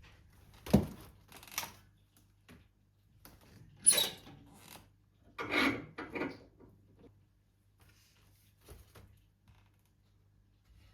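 A few knocks and short scraping sounds of things being handled, the sharpest knocks about a second in and about four seconds in, with a longer scrape after that, then only faint small sounds over a low hum.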